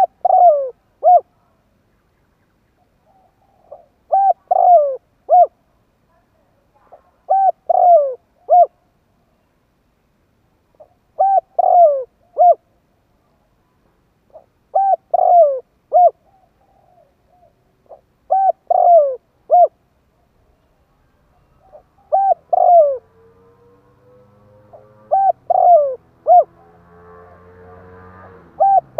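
Spotted dove cooing: one short phrase of three or four falling coos, repeated about every three and a half seconds, nine times. A faint rising hum comes in underneath during the last few seconds.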